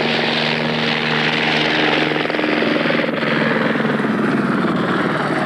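Group B rally car engine at high revs as the car runs past. A steady humming drone fades about two seconds in, and the fast firing pulses of the engine then take over.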